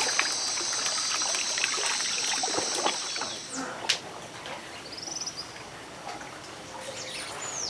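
Rainforest insects keep up a steady high drone that cuts off about three seconds in, over scattered trickling and dripping of water. A single sharp knock comes just before four seconds, and short chirping calls are heard near the end.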